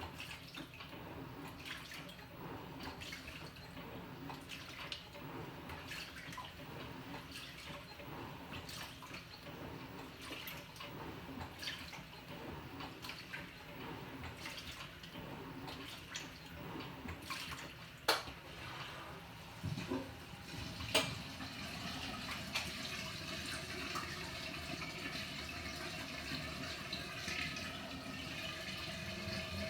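Water sloshing and splashing inside a Panasonic NA-FA100H9 top-loading washing machine as it runs, with many small splashes, a sharp click about two-thirds of the way through, and then a steadier, slightly louder rush of water.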